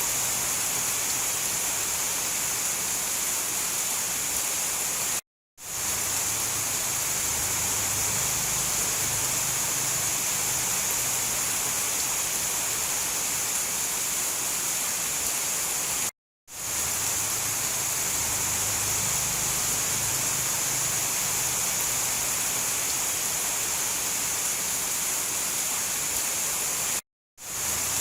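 Steady heavy rain, an even hiss with a low rumble underneath. It cuts out abruptly to silence three times, roughly every eleven seconds, and fades back in within about half a second.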